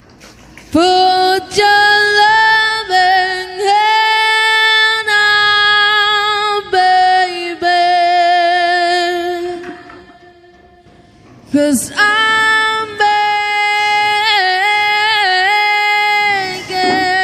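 Background music: a high woman's voice singing long held notes with vibrato, dropping out for a moment about ten seconds in.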